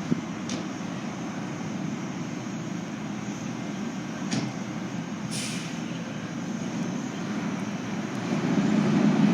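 Heavy truck, likely the fire engine, running steadily with a low rumble and a few sharp clicks. A short hiss of air comes about five seconds in, and the rumble grows louder near the end.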